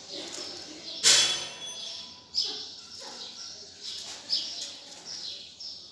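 Bird calls: short high chirps that fall in pitch, repeated every half second to a second. About a second in comes one loud, harsh burst, the loudest sound here.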